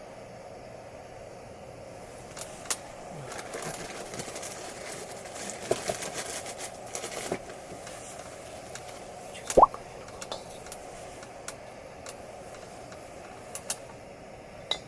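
Wood campfire crackling: irregular pops and snaps over a steady hiss, busiest in the first half, with one sharp, much louder pop about ten seconds in.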